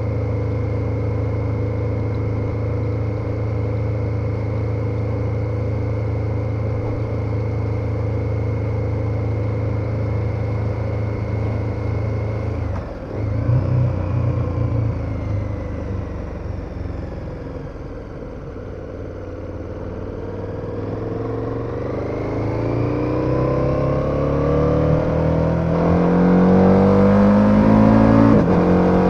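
KTM 1290 Super Adventure's V-twin engine holding steady revs while riding, with a brief change in note about halfway. The revs fall off for a few seconds, then the engine accelerates, its pitch and loudness climbing through the last several seconds.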